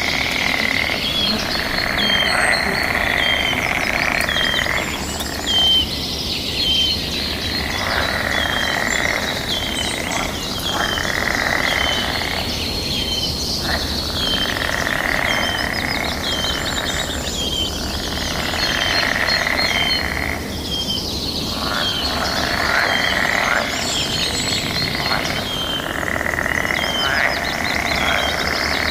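Chorus of frogs calling back and forth, the overlapping calls swelling and easing about every two seconds. Short high bird chirps repeat about once a second over the frogs.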